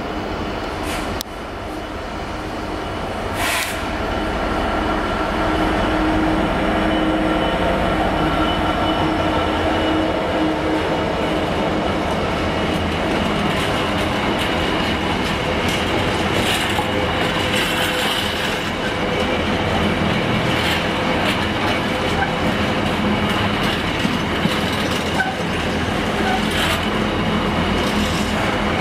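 A Class 66 diesel locomotive's two-stroke V12 engine grows louder as it passes during the first few seconds. It is followed by a long rake of empty container flat wagons rolling steadily past, their wheels clattering on the rails with scattered sharp clicks and clanks.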